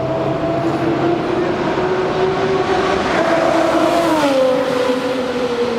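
Lamborghini Murciélago LP670-4 SV's V12 with a Reiter exhaust driving past at a steady engine speed; its pitch drops about four seconds in as it passes.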